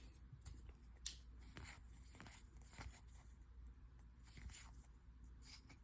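Faint handling of baseball trading cards: soft rustles and small scattered clicks as the cards are slid and flipped through by hand, one slightly louder click about a second in.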